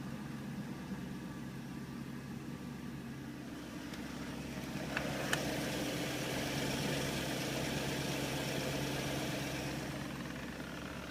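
BMW E38's M62TU V8 idling steadily just after a cold start. It runs smoothly without timing-chain rattle, which the owner credits to freshly replaced timing chain guides. It grows somewhat louder midway, with two sharp clicks about five seconds in.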